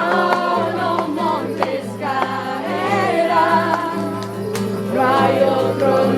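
A group of voices singing a Christian worship song together, with a sustained instrumental accompaniment underneath.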